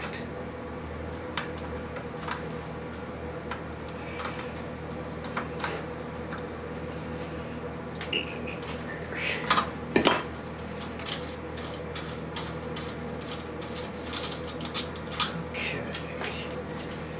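Hand tools and small metal parts clinking and tapping on a radio chassis while controls are being removed. Scattered light clicks give way to a cluster of louder knocks about ten seconds in, over a steady faint hum.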